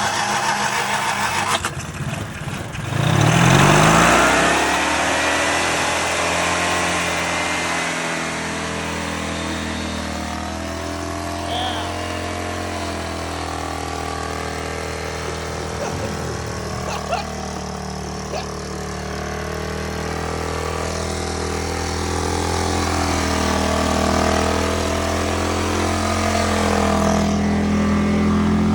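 Engine of a homebuilt lawnmower revs up sharply about three seconds in, its pitch climbing, then settles into a steady run; a few light clicks sound in the middle and the engine picks up again near the end.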